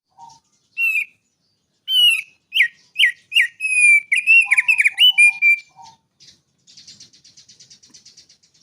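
A small songbird singing a quick run of loud, clear whistled notes, most of them sliding down in pitch, with a few lower notes mixed in. This gives way to a quieter, fast, rattling trill near the end.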